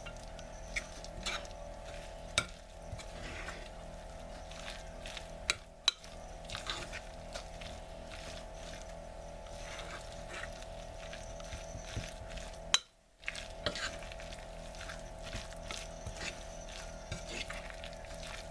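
A spoon stirring and folding chicken salad dressed with mayonnaise and ranch in a mixing bowl: soft wet scrapes with scattered clicks of the spoon against the bowl, over a steady faint hum.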